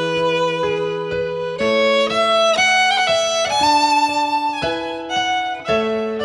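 Instrumental music, a violin carrying a melody of held notes over a lower chordal accompaniment, the notes changing every half second or so.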